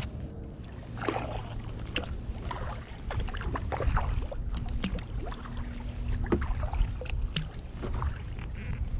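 Double-bladed kayak paddle strokes: blades dipping and splashing in the river water, with drips off the blades, over a steady low rumble.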